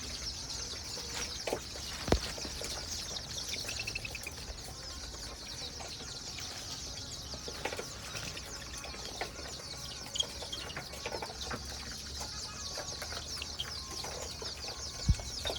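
A flock of young layer hens chirping and clucking steadily in a pen, many high calls overlapping, with scattered scratching and two sharp knocks, one about two seconds in and one near the end.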